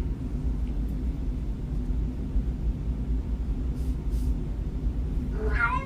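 Steady low rumble, with a short rising pitched whine near the end.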